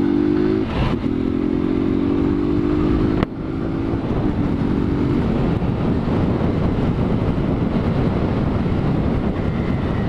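Motorcycle engine on its stock exhaust accelerating, the pitch climbing steadily with a brief break just under a second in, climbing again until the throttle shuts off abruptly about three seconds in. The engine note then fades, leaving steady wind and road rush as the bike rolls on.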